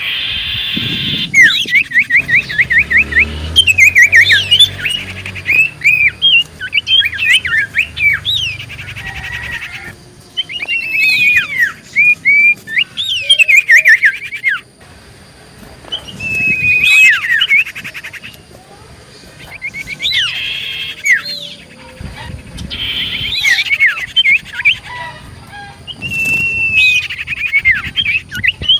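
Common iora (cipoh) singing vigorously in repeated bursts of quick sweeping chirps and rattling trills, with short pauses between phrases. A low rumble runs under the first few seconds.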